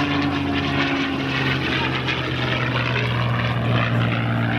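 P-51 Mustang's Packard Merlin V-12 engine and propeller droning steadily in flight, its pitch shifting slightly about a second in.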